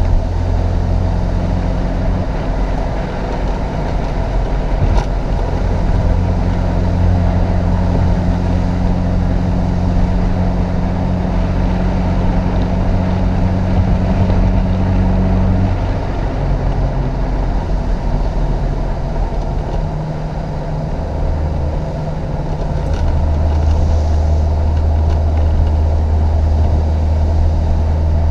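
1988 Chevrolet Opala Comodoro's four-cylinder petrol engine running under load, its note shifting up and down in steps several times as the revs change.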